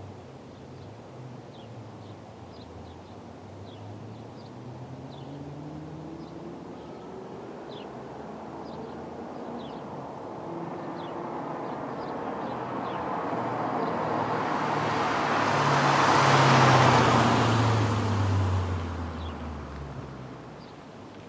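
Audi S4 B6 4.2 V8 with JHM headers and a Milltek non-resonated exhaust approaching from a distance, growing steadily louder, passing close about 17 seconds in, then fading away with its pitch dropping. Birds chirp faintly in the first half.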